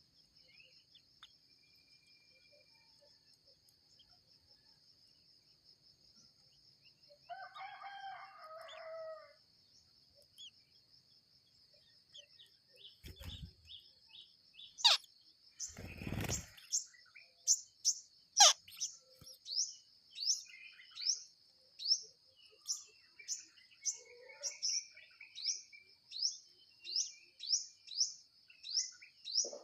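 High, rising chirps repeated about twice a second, becoming steady in the second half: typical of shrike nestlings begging at the nest. A rooster crows briefly about seven seconds in, over a steady high insect whine.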